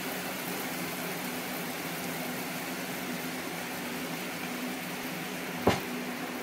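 Steady rain falling, with a faint low hum under it and one sharp knock a little before the end.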